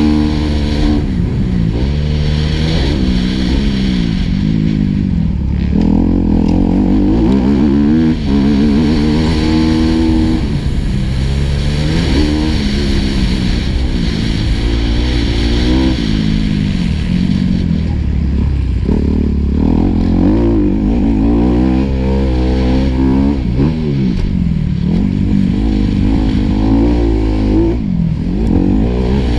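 Four-stroke single-cylinder motocross bike engine heard on board, revving up and falling away again and again as the rider accelerates, shifts and backs off, its pitch rising and dropping every few seconds.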